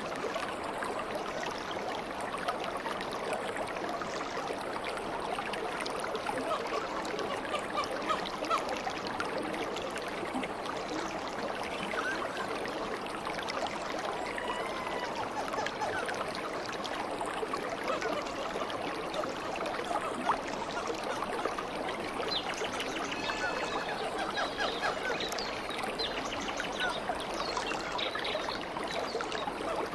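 A flowing stream babbling and trickling steadily. A few short chirps, most likely birds, come about halfway through and again in the last third.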